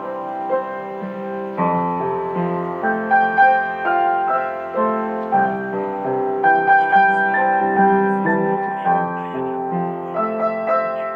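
Slow, gentle piano music, single struck notes and chords sounding one after another.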